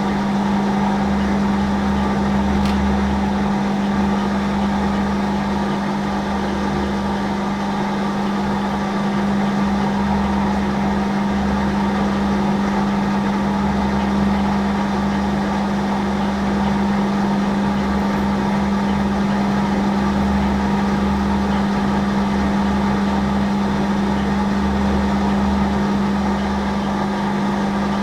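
Hafco Metal Master AL960B metal lathe running in low gear at about 160 rpm, cutting stainless steel, with a steady hum and a low rumble that swells and fades every second or two. The lathe is labouring a bit on the hard stainless.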